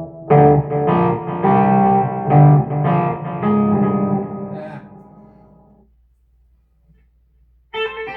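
Electric hollow-body guitar with humbucker pickups played through a Peavey Vypyr X2 amp's MOG effect: a run of notes and chords that rings out and fades away about halfway through. After a short pause, playing starts again near the end.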